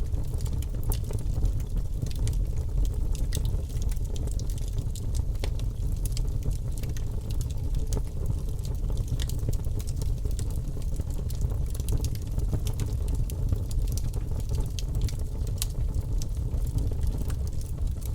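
Logs burning in a fireplace: a steady low sound of the fire with frequent, irregular sharp crackles and pops.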